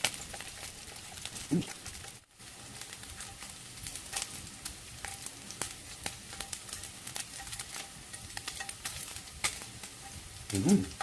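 Pork belly sizzling over a wood and charcoal fire, a steady hiss with many small crackling pops of spitting fat. A short voiced sound comes about a second and a half in, and a voice starts just before the end.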